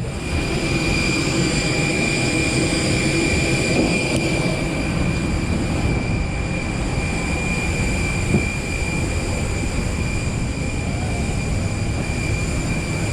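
Jet aircraft turbine noise: a steady high whine over a low rumble, typical of an engine or auxiliary power unit running at the stand.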